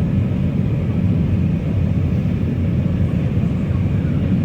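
Steady low rumble of Airbus A319-114 cabin noise: engine and air noise heard from inside the airliner's cabin.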